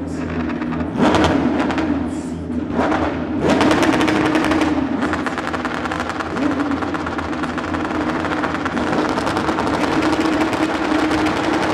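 Porsche 911 Cup race cars' flat-six engines at high revs, with a rapid rattling exhaust crackle. The engine note sweeps up about three and a half seconds in and then holds loud and steady.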